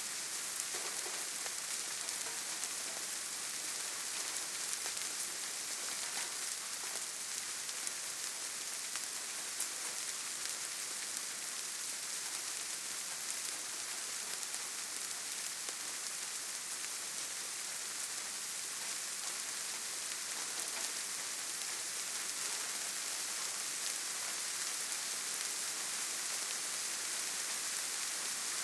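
Steady rain falling on foliage, an even hiss with many fine droplet ticks and no let-up.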